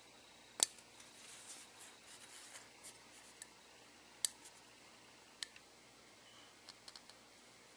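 Fingers working the tiny retractable landing gear of a 1:250 diecast model airliner, prying the left main gear down: faint handling and rustling, with three sharp clicks, about half a second in, near four seconds and near five and a half seconds, and smaller ticks between.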